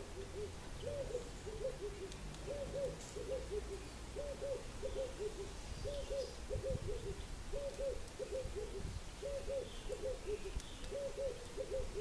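A bird repeating a low cooing call: each phrase is two higher notes dropping to lower ones, about every second and a half.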